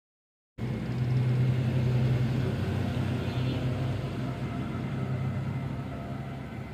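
Low, steady engine rumble of a heavy vehicle, cutting in abruptly and slowly fading.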